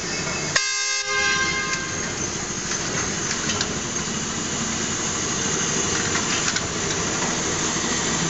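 Narrow-gauge electric train running, a steady rumble and rattle, with a short horn toot about half a second in.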